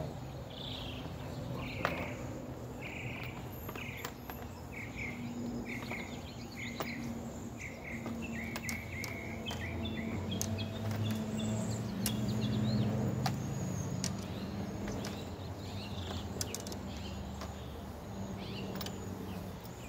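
A bird calling outdoors with a long series of short chirps that come faster after about five seconds, then higher, thinner chirps, over a low steady hum and a few faint clicks.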